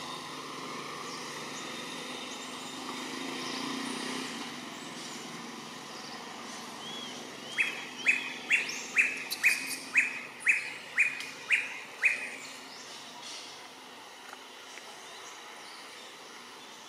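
A bird calling a series of about ten short, evenly spaced high notes, about two a second, for some four seconds in the middle, over steady outdoor background noise.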